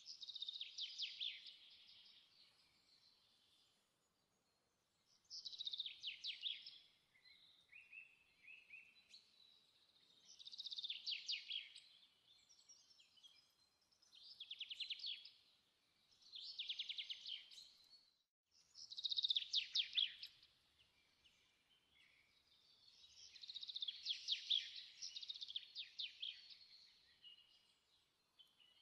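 Songbird singing: short, rapid trilled phrases repeated every few seconds, with quiet gaps between them.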